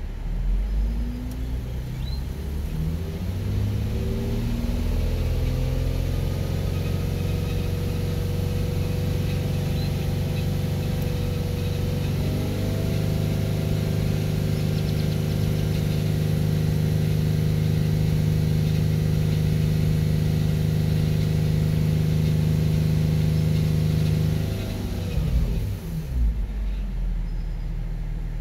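2007 Nissan 350Z's 3.5-litre V6 revved up from idle and held at a steady raised speed of about 3,000 rpm, stepping a little higher about halfway through, then dropping back to idle near the end. The revving pushes trapped air out of the cooling system while it is bled with the heater on.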